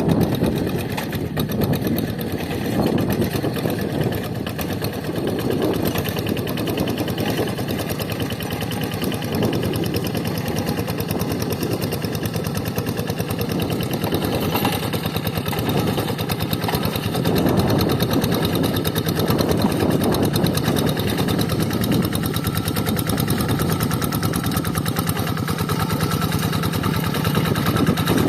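Quick Zeva G3000 two-wheel hand tractor's Kubota single-cylinder diesel engine running steadily under load, with a fast, even chugging knock from the exhaust.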